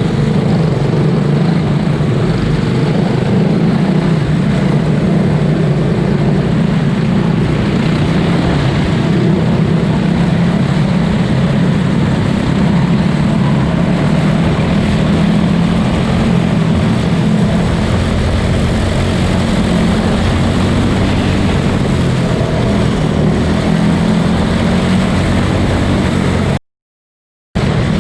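Small single-cylinder engines of quarter midget race cars, Briggs & Stratton Animal engines, running together in a race heat as a steady drone. The sound cuts out for about a second near the end.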